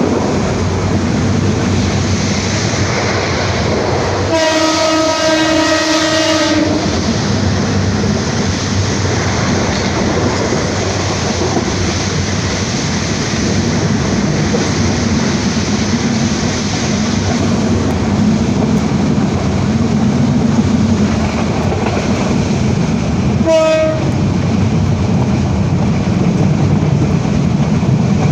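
Passenger train running steadily along the track, with a train horn sounding for about two seconds near the start and again as one short blast about three quarters of the way through.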